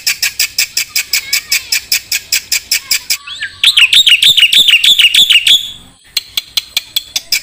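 A jalak (starling) singing: a fast string of sharp repeated chips, about eight a second, broken in the middle by a louder two-second run of repeated rising whistled notes. A short pause comes near the end before the chips start again.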